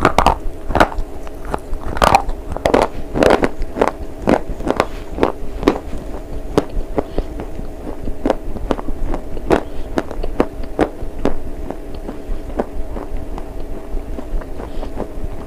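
A person biting and chewing a hard slate bar with crisp crunching. The loudest, densest crunches come in the first few seconds, then steadier chewing crunches follow at about two a second.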